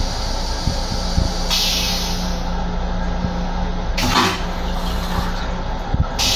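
Steady rumble and hum of an M7 electric railcar running, heard inside its restroom, with a few dull knocks and a short hiss about four seconds in.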